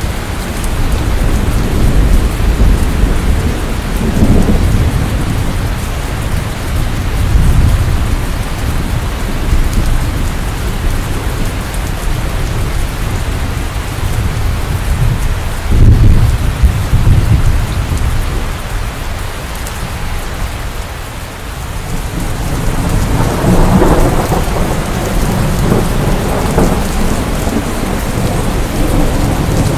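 Steady heavy rain of a thunderstorm with deep rolling thunder; a sudden, sharper thunderclap about halfway through is the loudest moment, and the rumbling swells again near the end.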